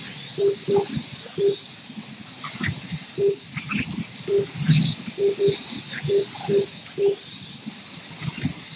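Slot cars' electric motors whining steadily at a high pitch as they race round the track, with about a dozen short, low beeps at irregular intervals, typical of a lap counter registering cars crossing the line.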